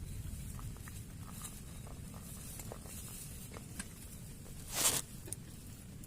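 Scattered raindrops tapping, one at a time, over a low thunder rumble dying away during the first second. About five seconds in comes one brief, louder burst of noise.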